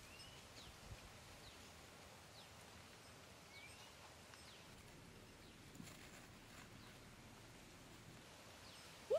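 Faint outdoor background with scattered short, high bird chirps every second or so. A brief, louder rising squeak comes right at the end.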